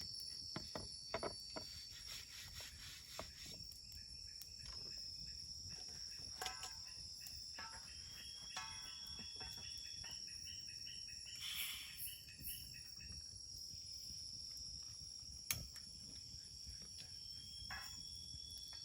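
A steady, high-pitched chorus of crickets and other forest insects at dusk. Scattered clicks and knocks from handling things at camp sound over it, with a brief rustle about two-thirds of the way through.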